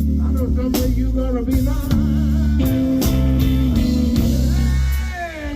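Live blues band playing: an electric guitar lead with wavering, bent notes over bass and drums, easing off slightly near the end.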